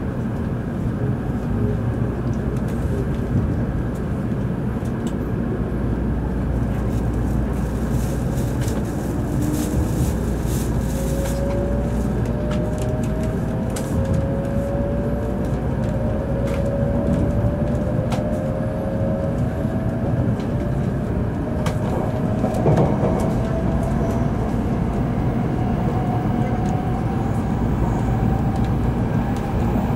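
Inside a Series N700 Shinkansen car pulling out of a station: a steady rumble of the running train, with a motor whine that climbs slowly in pitch as the train accelerates.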